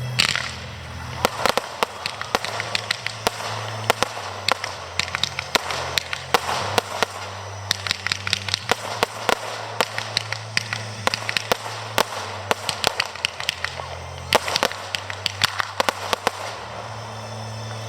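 Fireworks going off: a bang at the start, then rapid volleys of sharp cracks in dense clusters that stop about a second before the end.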